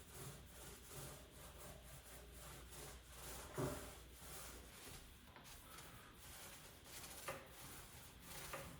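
Faint, repeated rubbing strokes of a finish being wiped or brushed onto wood, with a light knock about three and a half seconds in and another near the end.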